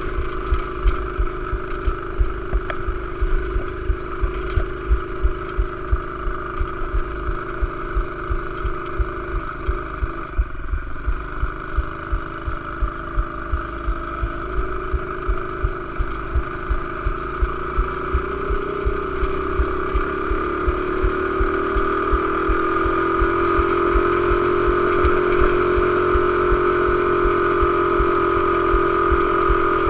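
Pit bike engine running with a steady pulsing beat. About a third of the way in it dips briefly. Then its pitch and loudness climb slowly over several seconds and hold higher to the end.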